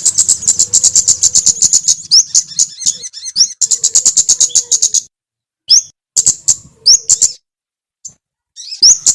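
Small songbird singing: fast runs of sharp, high chirps with short gliding notes, stopping dead twice for about a second before starting again.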